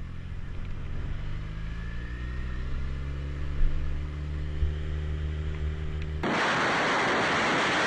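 Motorcycle engine running, its pitch climbing steadily as it accelerates. Near the end it cuts off abruptly to loud, steady wind rush on the microphone.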